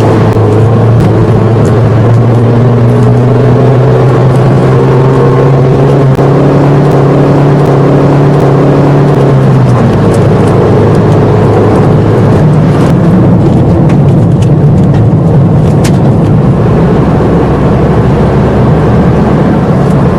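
Car driving, heard from inside: a steady engine drone that gives way about ten seconds in to a rougher rumble of road and tyre noise.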